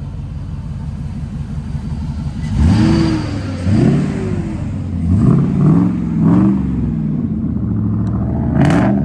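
Engine of a 'cat eye' Chevrolet Silverado pickup idling, then revved in a series of short throttle blips from about two and a half seconds in, each rising and falling in pitch.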